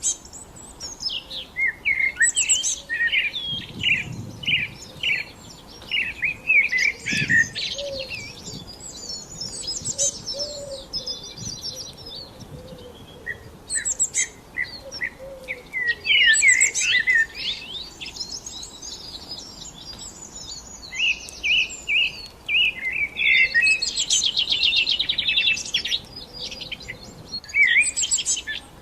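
Songbirds chirping and singing: a dense run of short, quick, high notes, broken by fast trills.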